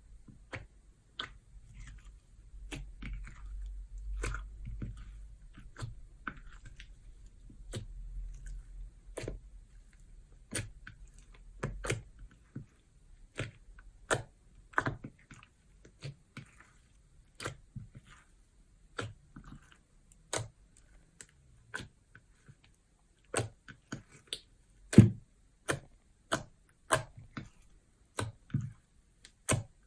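Clear slime being worked by hand, giving sharp, irregular clicks and pops as air pockets in it burst, with a low rumble of handling during roughly the first twelve seconds.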